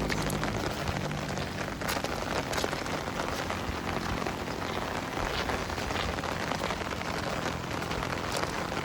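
Heavy rain falling steadily, a dense even hiss with scattered sharper drop strikes.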